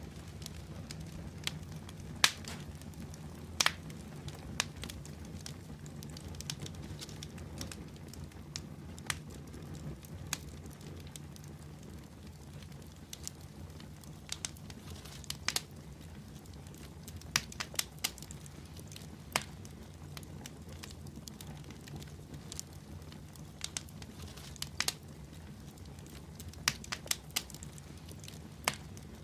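Wood fire burning in a fireplace, crackling with irregular sharp pops over a steady low rush of the flames.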